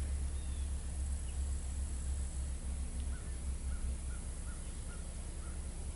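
Outdoor ambience with a steady low rumble, and a bird giving a row of about six short chirps about three seconds in, with a few fainter high chirps around it.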